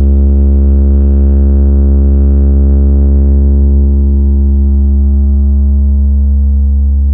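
Very loud, steady deep bass tone with a stack of distorted overtones, held without change through a large carnival sound system during a sound check.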